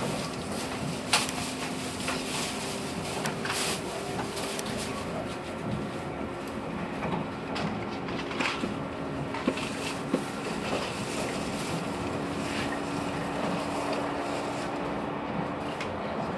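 Passenger train running, heard from inside the carriage: a steady rumble with faint hums that shift in pitch, and a few sharp clicks and knocks, the loudest about a second in.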